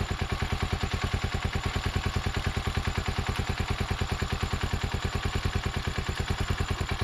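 Motorcycle engine running with a steady, even beat of about ten pulses a second.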